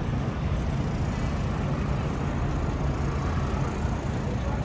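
Wind buffeting the microphone, a heavy uneven low rumble, over the steady noise of city street traffic.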